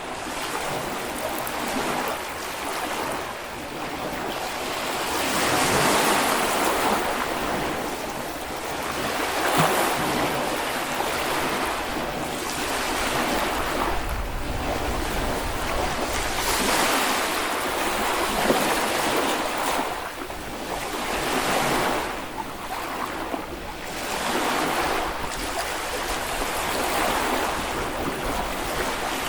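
Small Baltic Sea waves breaking and washing up the beach, the surf swelling and ebbing every few seconds.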